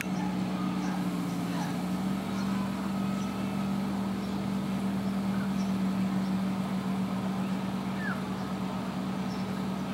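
A steady low engine hum holding one pitch, with a few faint short bird calls above it.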